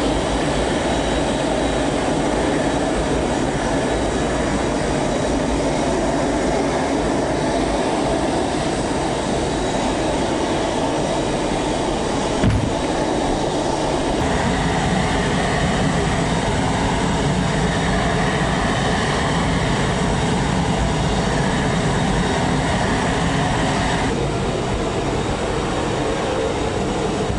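Steady, loud aircraft engine noise, with a short thump about halfway through and shifts in the sound where clips change.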